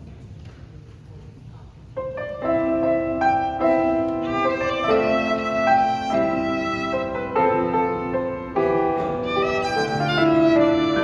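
Low room noise, then an instrumental ensemble starts playing about two seconds in, with held, sustained melodic notes over chords.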